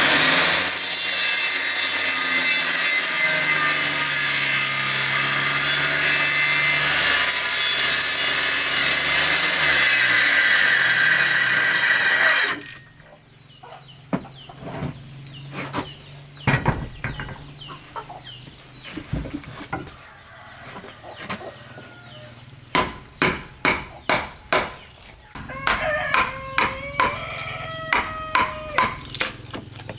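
A power saw cutting wood runs loudly for about the first twelve seconds, then stops abruptly. Sharp strikes on wood follow, with a steady run of blows about two a second near the middle of the rest. A rooster crows near the end.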